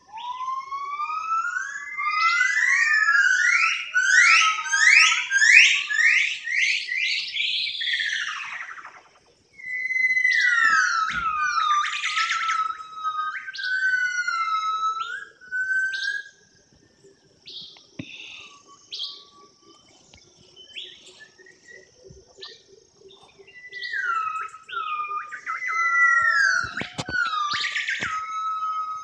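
A songbird singing loud, clear whistled phrases: first a fast run of rising notes climbing in pitch, then repeated falling whistles, with a pause of several seconds in the middle.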